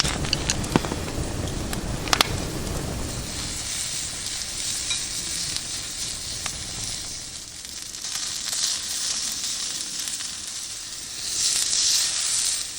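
Food sizzling in a frying pan, with a few sharp clicks of a utensil against the pan in the first couple of seconds. The sizzle swells louder twice in the second half.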